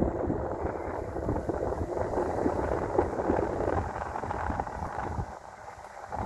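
Wind buffeting the microphone in uneven gusts, easing off about five seconds in.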